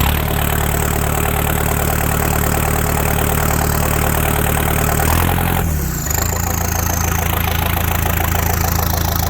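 Tractor engine running straight piped, with the muffler removed, at a steady idle. The engine speed shifts briefly about five seconds in, then settles back.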